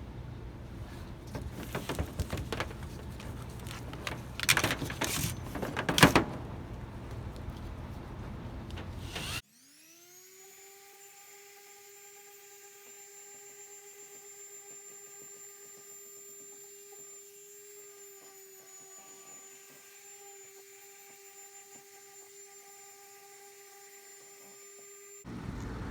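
Rubbing and scraping on the truck's sheet metal with a few sharp knocks. After an abrupt cut, a small electric motor spins up into a steady, quiet whine.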